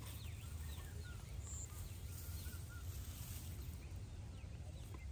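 Outdoor rural ambience: birds giving faint, short chirps here and there over a steady low rumble.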